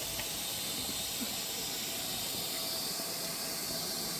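Steady hiss of steam escaping from a steam locomotive.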